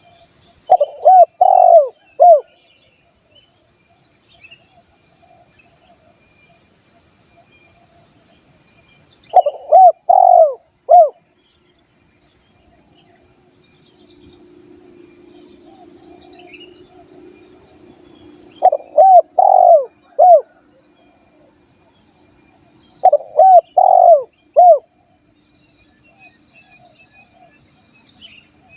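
Spotted dove (tekukur) cooing: four phrases of about four rising-and-falling coos each, the last coo slightly set apart, with several seconds' pause between phrases. A steady high-pitched insect drone runs underneath.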